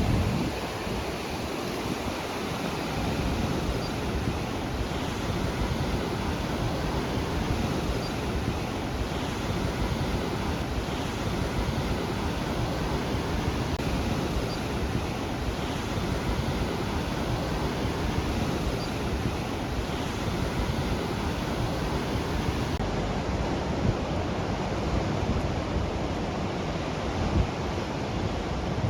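Ocean surf breaking and washing on a beach as a steady rushing noise, with some wind on the microphone.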